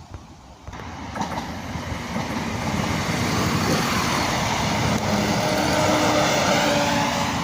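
Diesel train running past on the line: its rumble and rail noise build up about a second in and stay loud, with a steady engine drone joining in near the end.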